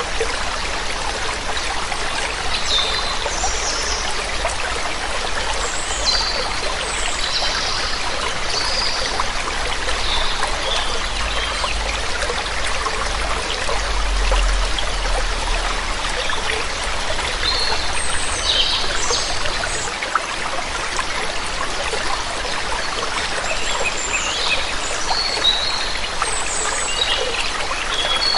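Waterfall water running steadily, with small birds chirping now and then above it, the calls clustering in the first few seconds and again in the last third.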